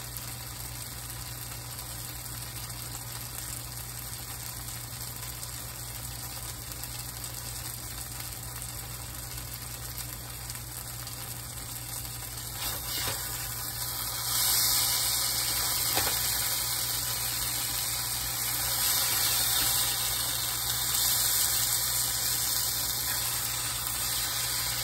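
Yellow squash and onions frying in oil in a skillet, a steady sizzle that grows louder a little past halfway, with a couple of light knocks from a metal spatula in the pan.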